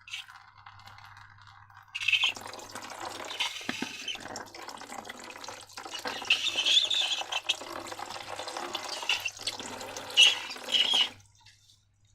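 Wet, liquid sounds of a slime mixture being poured and worked, starting about two seconds in and stopping suddenly near the end.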